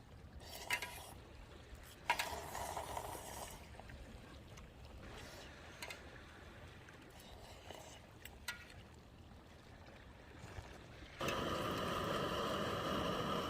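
A few light clinks and handling sounds of eating from a pot, with faint pouring or trickling. About eleven seconds in, a steady motor-like noise starts abruptly and keeps running, much louder than what came before.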